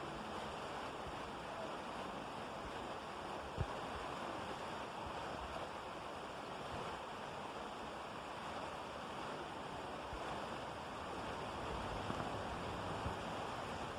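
Steady rain falling, an even hiss, with a few brief low thumps, the loudest about four seconds in.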